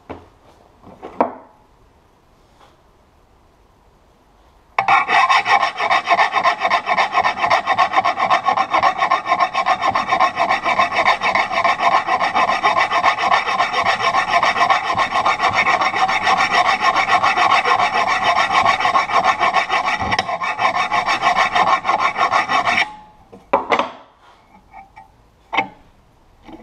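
Steel mower blade being sharpened against a spinning sandpaper disc: a steady, rapidly pulsing grinding sound that starts about five seconds in, eases briefly near the end, then cuts off, followed by a few light knocks as the blade is handled.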